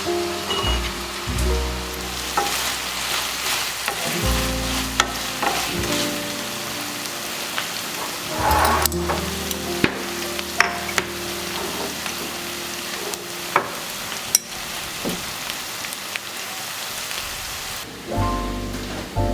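Food sizzling in a frying pan as it is stirred, with sharp clicks of a utensil against the pan now and then, under soft background music.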